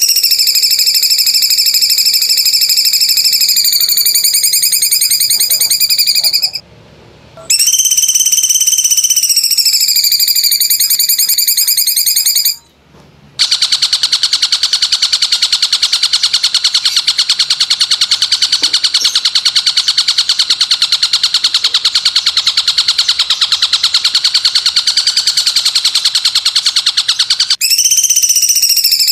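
Loud, high-pitched rapid trill from a birdsong training (masteran) recording, steady in pitch, breaking off twice briefly. A longer, even trill follows and runs until near the end, when the first trill returns.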